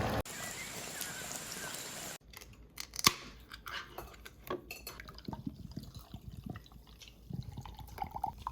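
A steady hiss for about two seconds, then scattered light clicks and clinks of dishes and utensils, with one sharper clink about three seconds in.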